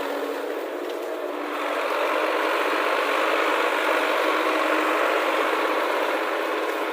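Heavy diesel engine running steadily, getting a little louder about a second and a half in.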